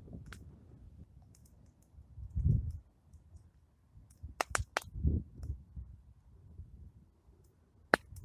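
Plum-wood campfire crackling: scattered sharp pops, a quick run of three about halfway through and a loud one near the end. A few dull low rumbles come and go between them.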